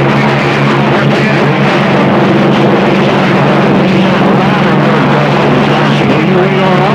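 CB radio receiver on long-distance skip putting out loud, rough static with a steady low hum as several stations key up over each other, their signals garbled together. Warbling squeals start to come through near the end.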